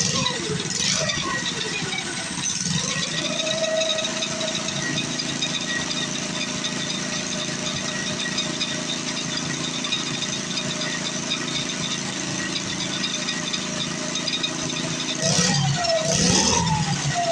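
Mini bike's small gas engine idling steadily, revved up and down briefly at the start and again a couple of times near the end, while its idle, set too low, is being turned up.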